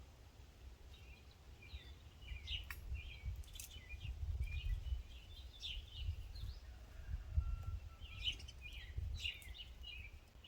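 Small birds calling in many quick, short chirps, starting about a second in, over a low rumble of wind on the microphone.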